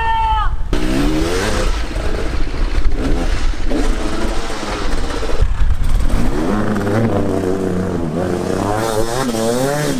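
Dirt bike engines revving, the pitch rising and falling over and over.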